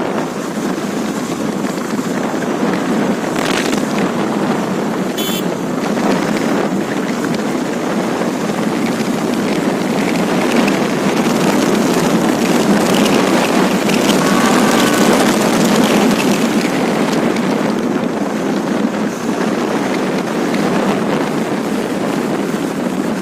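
Steady wind roar buffeting the microphone of a motorcycle being ridden, the Karizma R, with the road and engine noise blended underneath.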